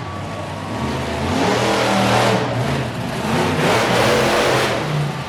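Monster truck engine revving hard, swelling up twice over a steady running note.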